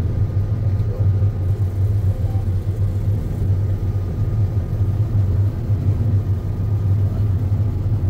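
John Deere X9 combine running steadily while harvesting canola: an even, low drone.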